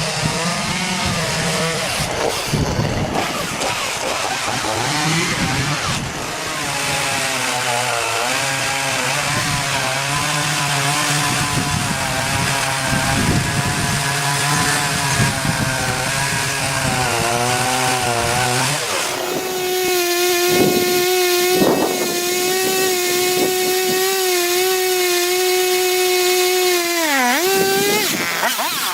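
Petrol chainsaw running under load, its engine pitch sagging and recovering as it cuts timber. About two-thirds of the way through it runs at a steady high pitch, off the wood at full throttle, with a couple of knocks. Near the end the pitch drops sharply as the throttle is released.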